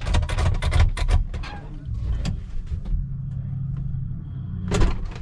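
A car engine running at idle. A rapid string of clicks and knocks fills the first two seconds, and a single sharp noise comes near the end.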